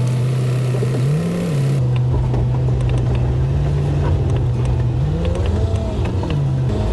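Plow truck engine running, its pitch rising briefly and falling back about a second in and again later as it revs under load. A steady hiss cuts off suddenly just before two seconds in, and a low rumble follows.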